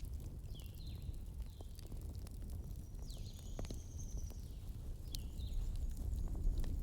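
Wood fire in a fireplace crackling, with scattered sharp pops over a low steady rumble. Several short high whistles come through, and one longer whistle near the middle.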